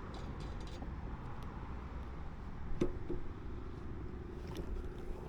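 Steady low vehicle rumble, with a sharp knock a little under three seconds in followed by a steady hum.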